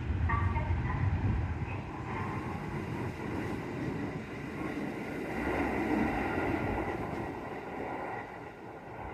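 Electric commuter train running on the rails: a steady rumble with a hiss of running noise, growing quieter near the end.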